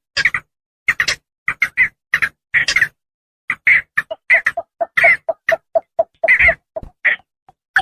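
Javan pond herons calling: short calls repeated in quick runs of several a second, with a brief pause just before the middle. This is a lure recording for attracting the birds.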